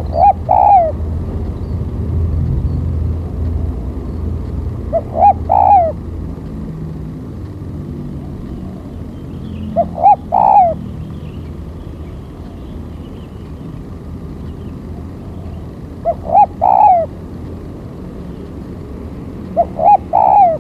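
Spotted dove (tekukur) decoy cooing, a short three-note phrase of two quick notes and a longer one, repeated about every five seconds over a steady low rumble. It is the call of a decoy dove used to lure wild doves.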